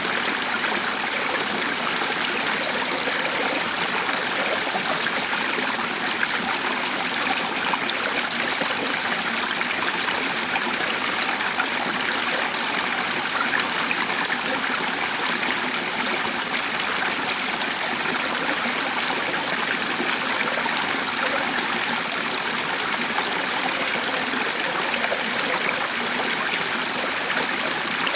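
A stream of running water flowing steadily, a constant babbling rush with no change in level.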